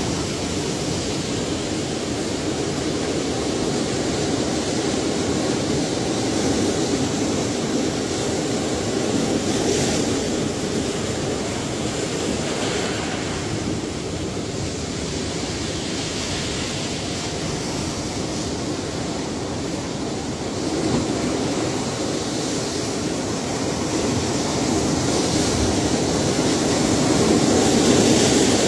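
Ocean waves breaking and washing on a shore: a continuous rush of surf that swells and eases over several seconds, building to its loudest near the end.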